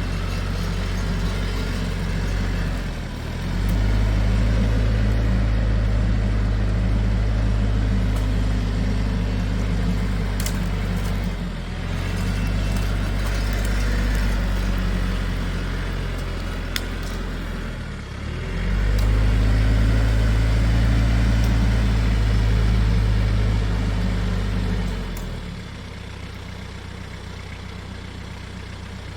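A large vehicle engine running, its low note swelling and easing as the load or revs change: it dips briefly three times and settles quieter near the end.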